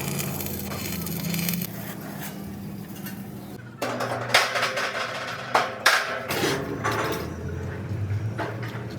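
Steel parts knocking and clattering irregularly over a steady low hum, becoming busier about four seconds in.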